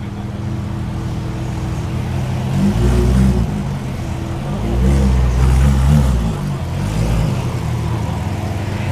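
Car engine running low and steady, its note swelling and shifting in pitch twice, about three seconds in and again around five to six seconds, as it is driven or revved lightly.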